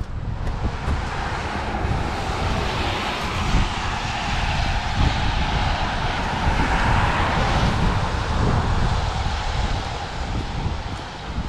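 A passing vehicle on a wet road: a long rushing hiss that builds to a peak about seven seconds in and then fades. Wind rumbles on the microphone underneath.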